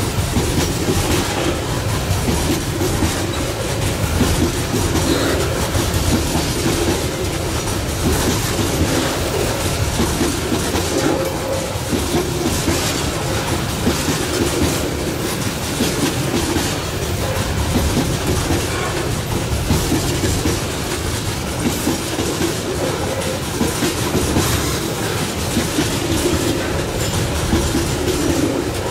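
Loaded coal wagons of a long freight train rolling past, with a steady rumble and wheels clicking rhythmically over the rail joints.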